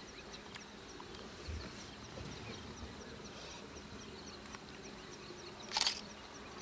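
Quiet bush ambience: a faint high chirp repeats about four times a second. A single short camera-shutter burst comes near the end.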